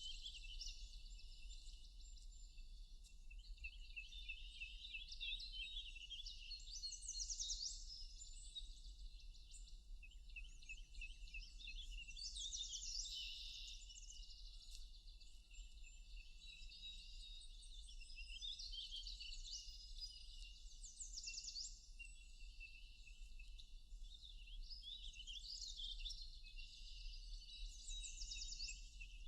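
Forest songbirds singing and chirping together, a dense chorus of high, quick notes, several in fast trills, overlapping without a break.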